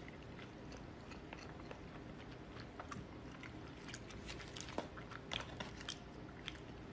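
A person chewing a mouthful of noodles close to the microphone, with quiet wet mouth clicks scattered through and a few sharper ones in the second half.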